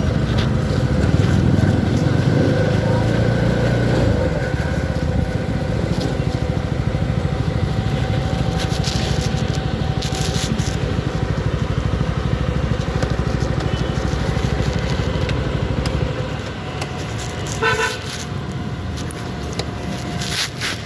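Motorcycle under way, its engine running steadily with road noise, easing off a little near the end. A short, stuttering horn toot sounds near the end.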